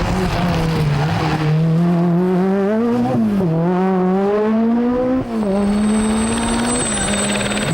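Peugeot 205 T16 Group B rally car's turbocharged 1.8-litre four-cylinder engine driven hard, its revs climbing and then dropping sharply twice, about three and five seconds in. A steady high whistle joins the engine note after the second drop.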